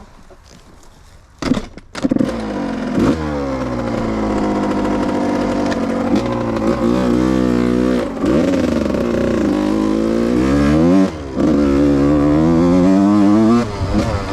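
Yamaha YZ125's 125 cc single-cylinder two-stroke engine starting about two seconds in, then revving and running with its pitch repeatedly rising and falling, with brief throttle cuts near the middle and again about two-thirds of the way through.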